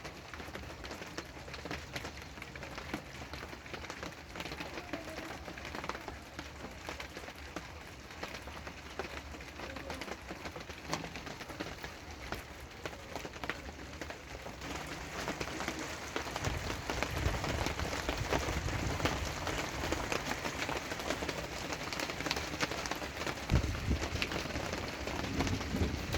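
Rain falling steadily, with many individual drops ticking close by. About two-thirds of the way in a low rumble joins and grows stronger, with heavier surges near the end.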